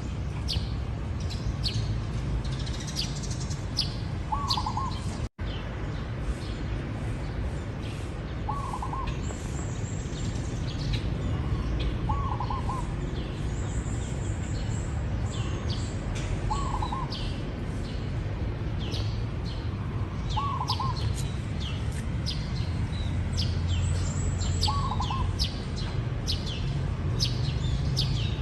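Zebra dove cooing short rolling phrases about every four seconds, with other small birds chirping rapidly and continuously over it.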